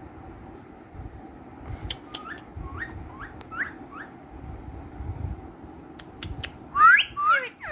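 Ringneck parakeet whistling: a quick run of about five short rising chirps, then two louder rising whistle calls near the end, with a few sharp clicks in between.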